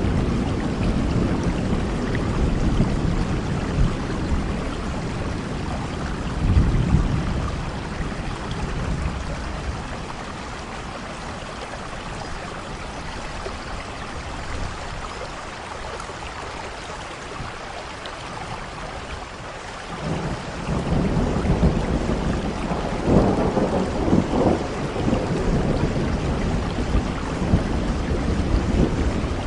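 Heavy rain falling steadily with rolling thunder. The rumble eases off through the middle, and a new thunder peal breaks in suddenly about two thirds of the way through, crackling and rumbling.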